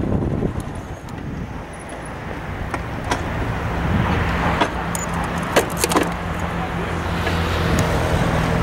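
Car engine running steadily with a low hum, with several sharp clicks and knocks in the middle of the stretch.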